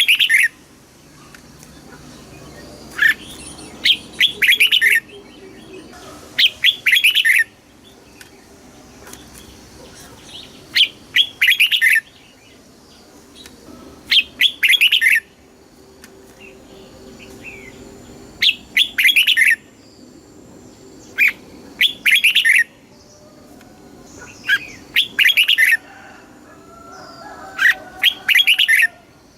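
Red-whiskered bulbul singing: short, bright whistled phrases of about a second each, repeated every three to four seconds.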